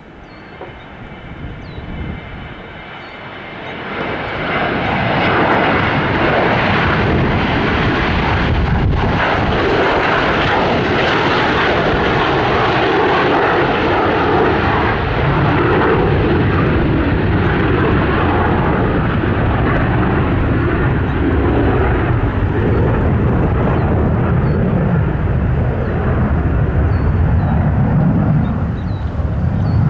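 The McDonnell Douglas DC-9-15's twin Pratt & Whitney JT8D-7A jet engines whine at low power, then spool up about four seconds in. They stay loud and steady at takeoff thrust from then on.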